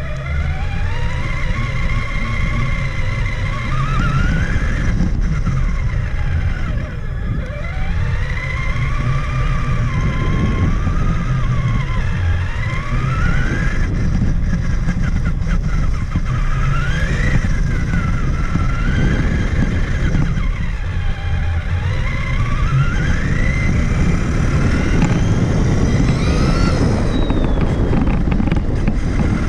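Traxxas Summit 1/10-scale RC truck driving, its electric motor and gears whining up and down in pitch as it speeds up and slows again and again. Underneath is a constant rumble and rattle of tyres, suspension and chassis, picked up by the camera bolted onto the truck.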